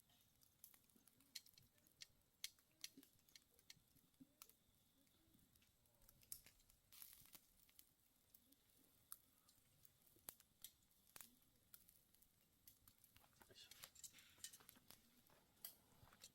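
Faint crackling from a campfire: sharp, irregular pops and snaps, several a second, thickening a little near the end.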